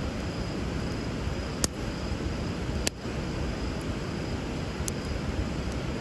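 Wood bonfire crackling, with two sharp pops about a second apart in the first half, over the steady rush of flowing river water.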